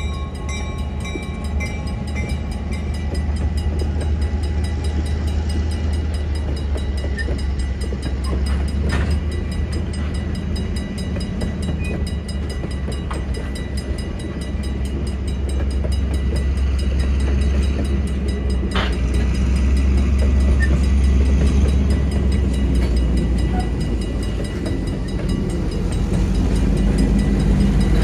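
Train running by with a steady low rumble and two sharp knocks, about nine and nineteen seconds in.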